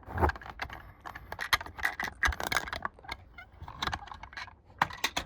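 Diecast toy truck and its plastic trailer being handled: a quick, irregular run of small clicks and rattles.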